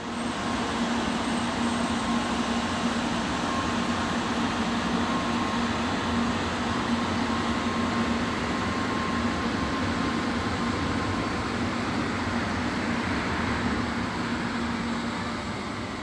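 N700A Shinkansen train running slowly past along the platform: a steady rumble with a low hum and a faint higher whine, easing off slightly near the end.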